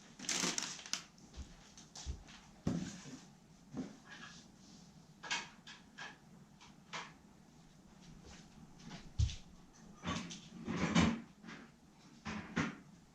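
Irregular knocks, clicks and short scrapes of hard objects being handled and set down on a hard surface, about a dozen spaced unevenly, with the loudest cluster near the start and another about two-thirds of the way through.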